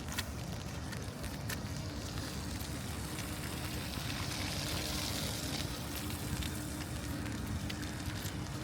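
Wet city street ambience: a steady hiss with a low hum, swelling around the middle as a vehicle's tyres swish past on the wet road. A few sharp footstep clicks near the start.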